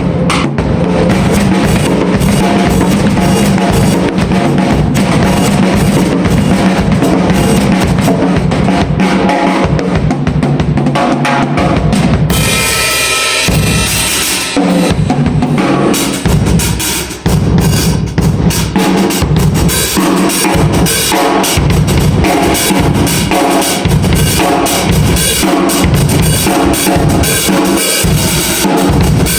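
A drum kit being played continuously, with bass drum and snare strokes. Cymbals wash over the beat a little before the middle, followed by a brief break, before the strokes pick up again.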